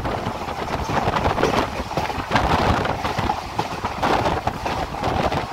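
Running noise of a moving passenger train heard from an open door or window: steady rumble of the wheels on the rails with wind buffeting the microphone.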